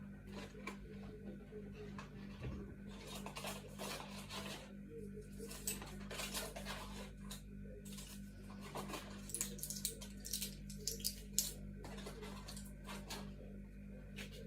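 Items being handled, with irregular rustles and light clinks, over a steady low hum.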